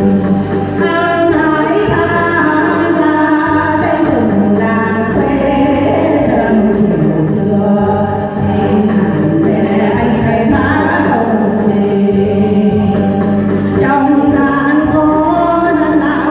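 Song: singing over instrumental accompaniment with a steady bass line.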